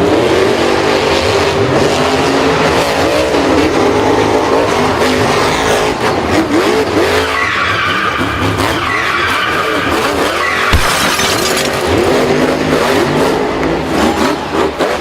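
Racing vehicle engines revving up and down with tyres skidding, a dense, continuous mix of motor and skid sounds, with a single low thud about eleven seconds in.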